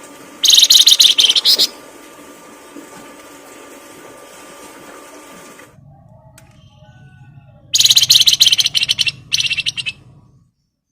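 Songbird singing in loud, rapid high-pitched trills: one burst of about a second near the start, then two more close together near the end.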